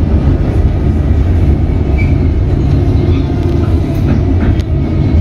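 Comeng electric suburban train heard from inside the carriage while running: a steady, loud low rumble of wheels on rail, with a couple of faint clicks about four seconds in.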